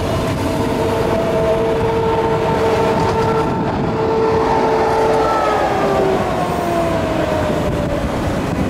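Queensland Rail electric train running close by: a loud rumble of wheels on rails with several steady whining tones from the traction equipment, which slide gradually lower in pitch over the second half.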